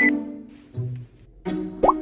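Light comedic background music of short plucked and bowed string notes. A note starts sharply at the beginning, and a quick upward-gliding cartoon effect sounds near the end.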